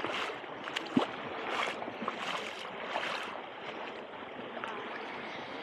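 Gentle waves washing and hissing at the shoreline, swelling and easing, with one sharp knock about a second in.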